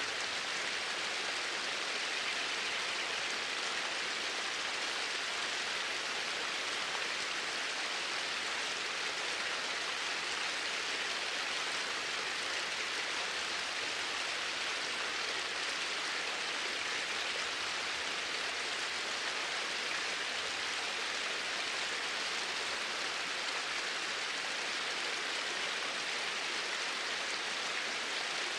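Flowing water making a steady, even rushing hiss that does not change.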